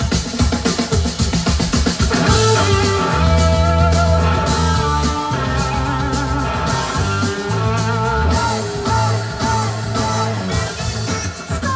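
Live rock band playing: drum kit and bass under electric guitar and long, wavering melodic lines.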